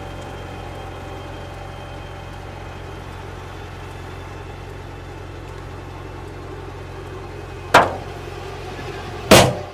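A car engine idling with a low steady rumble and faint held tones, then two sharp bangs near the end, about a second and a half apart, the second one the loudest, after which the sound cuts off.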